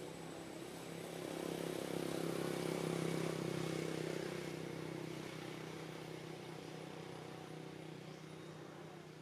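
A motor engine's hum passing by: it swells over the first three seconds or so, then slowly fades away.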